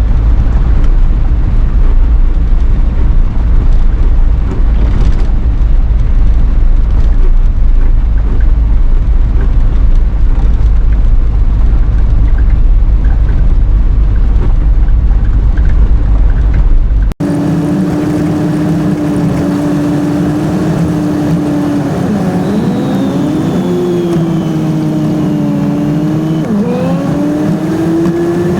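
A steady low rumble, then after an abrupt cut a motor running with a steady hum whose pitch dips and recovers a few times, as if under changing load.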